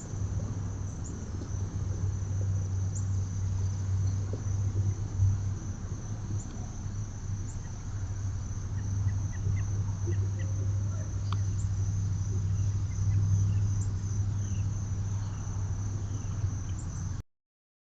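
Outdoor yard ambience: a steady high-pitched insect drone with scattered faint short bird chirps, over a steady low hum that is the loudest sound. The sound cuts off abruptly near the end.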